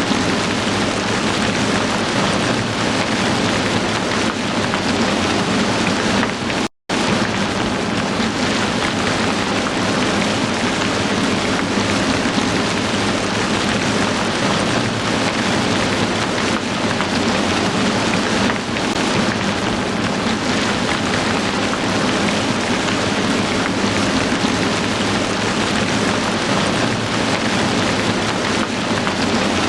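Heavy rain falling steadily, a dense even hiss with no let-up. It drops out completely for an instant about seven seconds in.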